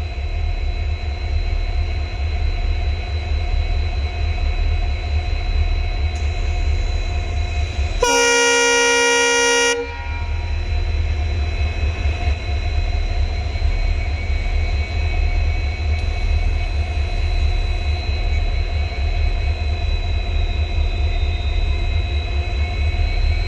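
WDG4 (EMD GT46MAC) diesel locomotives running with a steady low rumble and a high steady whine. About eight seconds in, the locomotive horn sounds once for nearly two seconds.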